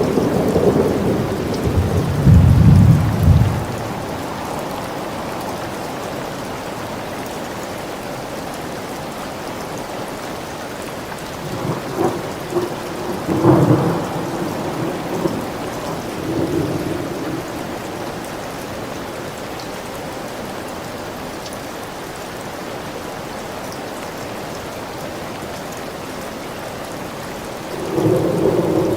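Steady rain falling during a thunderstorm, with rolling thunder: a loud rumble in the first few seconds, another rolling through the middle, and a third building near the end.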